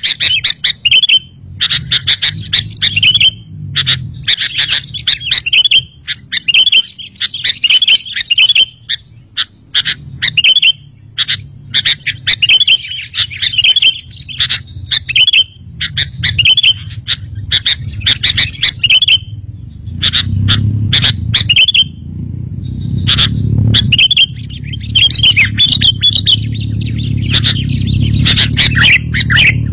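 Sooty-headed bulbul (kutilang) singing: short, bubbly chirping phrases repeated about once a second. A low rumble runs underneath and grows stronger from about twenty seconds in.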